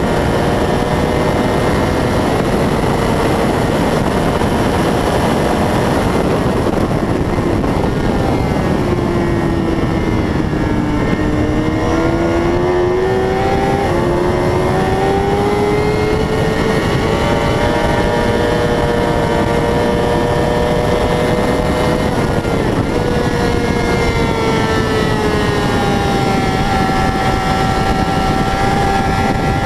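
600 cc racing motorcycle engine at speed under a constant rush of wind noise. The engine note drops as the bike slows, about eight to eleven seconds in, then climbs steadily again as it accelerates.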